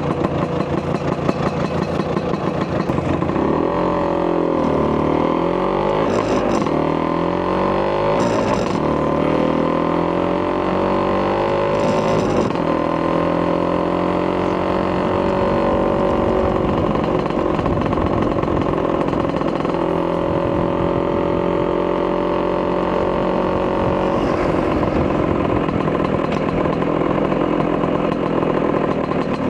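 Vespa PX200 two-stroke single-cylinder engine, bored to 210cc with a Polini kit and breathing through a Marossi expansion chamber exhaust, ridden on the road. It starts at low revs, then pulls away with the revs climbing and dropping at each gear change, holds a steady cruising note, and drops back to low revs near the end.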